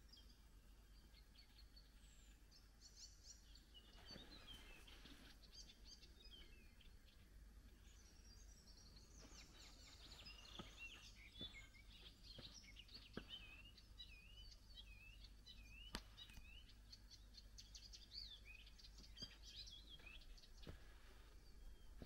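Faint songbirds singing and calling in riverside woodland, with a quick series of repeated chirping notes through the middle, over a low steady rumble and a few soft clicks.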